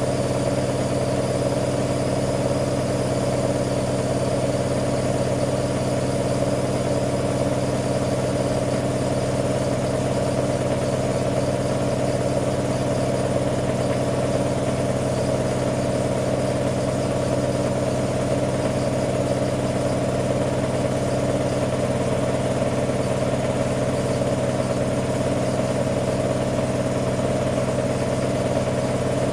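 AEG Lavamat Turbo washer-dryer running through its cycle: a constant, even machine hum that stays level throughout.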